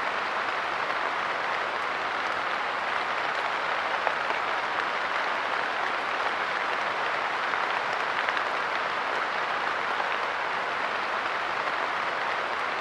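Steady light rain pattering, dense fine drops ticking on a surface with no change in intensity.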